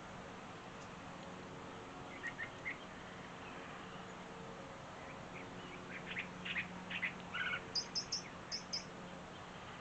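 Songbirds chirping: three quick chirps about two seconds in, then a longer run of rapid chirps from about six to nine seconds, over a faint steady low hum.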